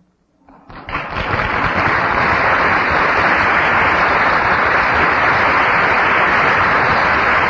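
Audience applauding: it builds up quickly about half a second in and then holds steady and loud.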